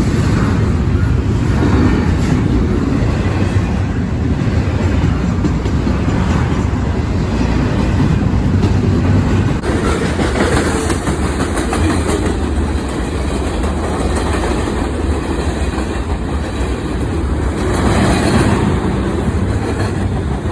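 Freight train cars rolling past close by, steel wheels clattering over the rail joints in a steady, loud rumble.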